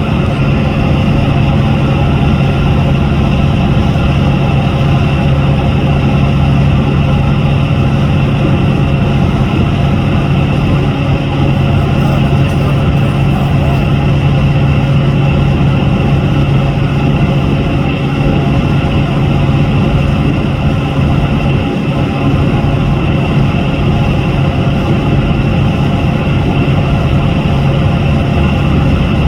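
Boat engine running steadily at an even speed: a loud, unchanging low hum with a haze of noise over it.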